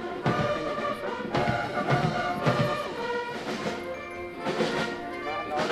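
Military band playing, brass over a drum beat of about two strokes a second.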